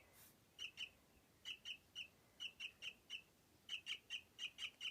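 Baby myna bird chirping: short, high chirps repeated in quick runs of two to six, with brief pauses between runs.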